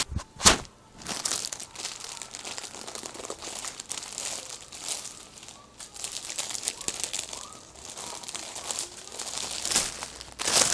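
Plastic packaging crinkling and rustling as a hair order is handled and unpacked, with irregular crackles. There are two sharp knocks near the start, and the crinkling grows louder near the end.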